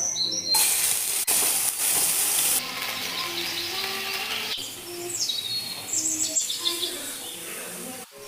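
Food sizzling in a hot frying pan, loudest for about two seconds near the start and then settling to a steadier hiss, with birds chirping a few short falling calls around the middle.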